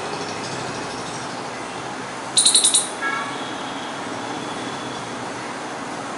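A squirrel gives a quick burst of about five sharp, high-pitched chirps about two and a half seconds in, followed by a fainter, lower call, over steady traffic noise.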